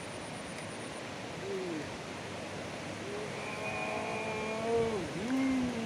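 Steady rush of river water. From about halfway a faint drawn-out pitched call rises over it and falls away near the end.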